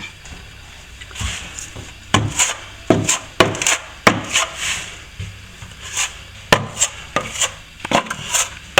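A hand tool working at plaster where the wall meets the ceiling: about fifteen short, sharp scrapes and knocks at irregular spacing, starting about a second in.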